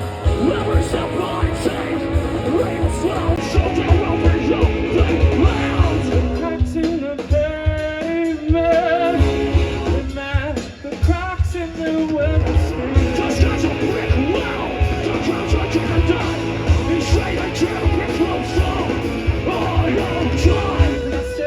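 Loud rock band with drums, bass, guitars and sung and yelled vocals, as heard live at a festival. About seven seconds in the music thins to a sparser passage for several seconds, then the full band comes back in.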